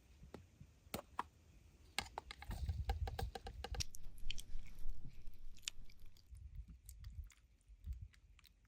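Irregular small clicks and ticks, busiest from about two to six seconds in, over soft low bumps, like close-up handling of small objects.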